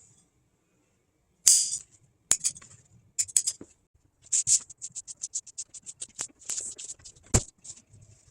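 Upholstery material being cut by hand: a few scattered rustles and clicks, then a quick, even run of short cuts, about four or five a second, from about halfway through.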